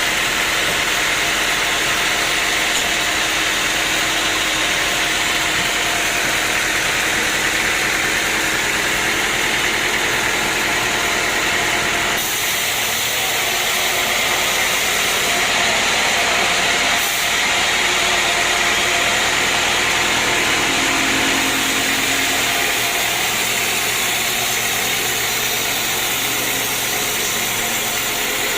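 Sawmill machinery running: a steady, loud machine noise with a low hum, its character shifting about twelve seconds in.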